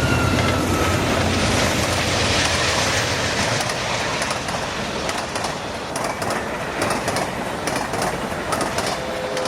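A train passing: the locomotive's low engine rumble fades over the first few seconds, leaving the steady rush of the passing railcars with repeated clicks and clacks of wheels over rail joints.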